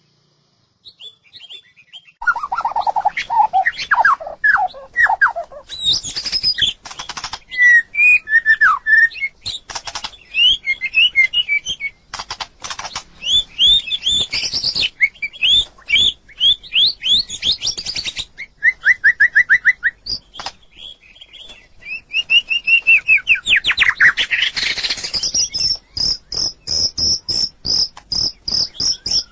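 White-rumped shama singing a varied song of whistled phrases, fast runs of rising notes and sharp clicking notes, beginning about two seconds in. Near the end comes a long series of rapid repeated high notes.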